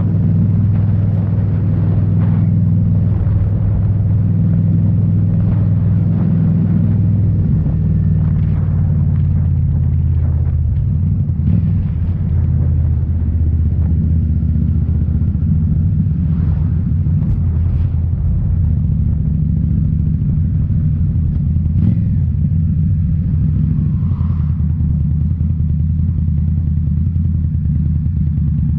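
2018 Indian Scout Bobber's liquid-cooled V-twin running through Rinehart slip-on mufflers while being ridden, a deep steady exhaust note that shifts pitch a couple of times as engine speed changes.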